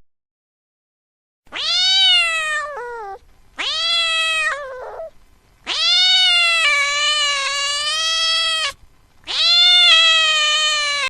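A domestic cat meowing: four long, drawn-out meows with short gaps between them. The first two drop in pitch at the end, and the third is the longest, about three seconds.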